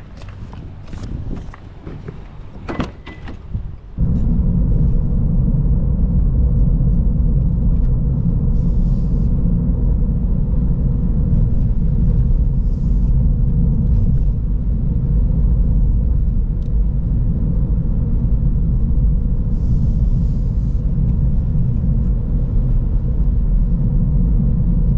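A few clicks and knocks, then about four seconds in a Toyota GR86's engine comes in suddenly and runs on steadily with a deep rumble.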